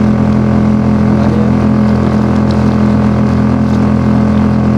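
Small Suzuki outboard motor on a kayak running steadily at a constant engine speed.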